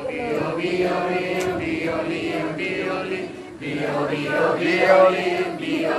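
A group of young people singing together without words, vocally imitating violins in a follow-the-leader instrument song.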